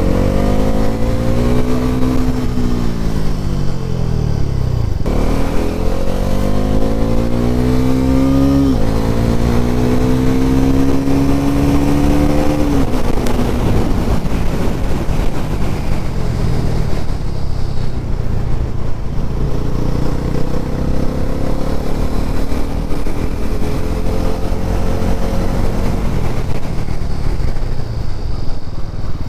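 Bajaj Pulsar NS400Z's 373 cc single-cylinder engine under way: its pitch falls at first, then climbs through two gear changes about five and nine seconds in. Near the middle the throttle eases off into a steadier cruise, with a slow faint rise later.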